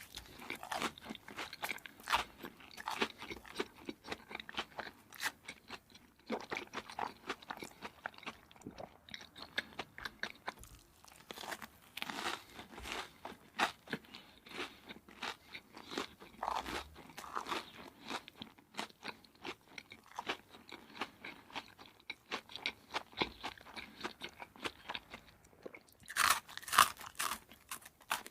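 Close-miked eating: biting and chewing crispy fried food, a steady run of crackly crunches with a louder burst of crunching near the end.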